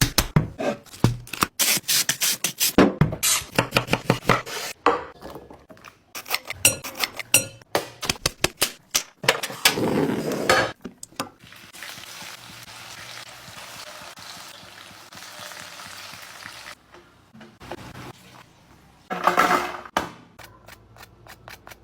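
Kitchen cooking sounds. For about the first ten seconds there is a quick run of knocks and clacks of utensils and cookware. After that comes a steady sizzle of food frying, then one louder scrape or clatter and a few more knocks near the end.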